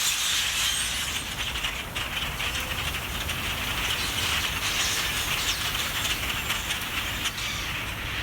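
A flock of grackles calling together in a tree: a continuous, dense chatter of many short, rasping calls.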